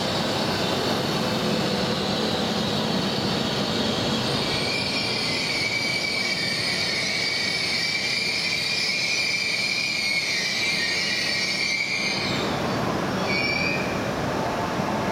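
E5/E6 series Shinkansen rolling into the platform and braking to a stop. A high squeal comes in about four seconds in and cuts off suddenly about twelve seconds in as the train halts, followed by a brief chirp and a steady hum from the standing train.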